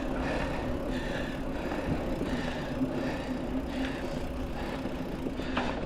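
Mountain bike rolling along a dirt trail on tubeless tyres: steady tyre and trail noise with small clicks and rattles from the bike.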